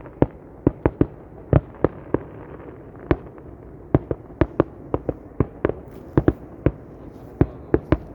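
Fireworks display: a rapid, irregular string of sharp bangs from exploding aerial shells, about two to three a second, over a steady background hiss.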